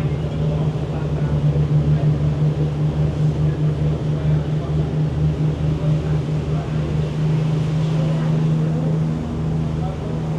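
Passenger boat's engine running steadily underway: a loud low drone with a fast even pulsing, over the rush of water and wind.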